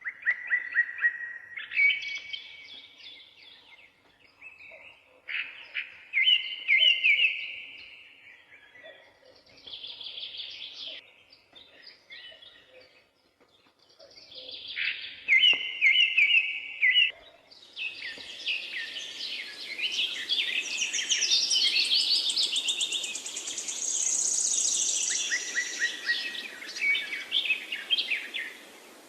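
Several forest songbirds singing: separate phrases of chirps and quick trills with short gaps between them. About two-thirds of the way through the song becomes busier and overlapping, with a high buzzing trill.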